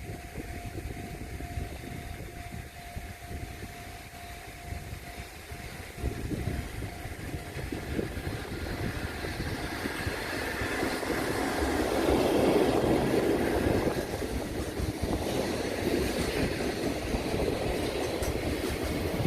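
Electric freight train approaching and running past at speed: wheel and rail noise builds from about six seconds in, is loudest around the middle of the clip, and carries on as the wagons roll by.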